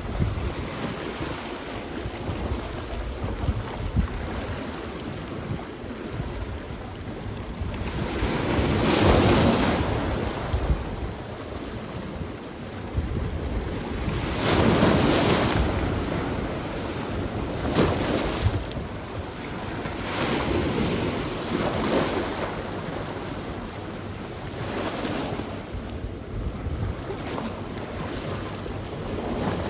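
Sea waves washing onto a beach, swelling and fading every few seconds, with the biggest surges about a third and halfway through. Wind buffets the microphone throughout.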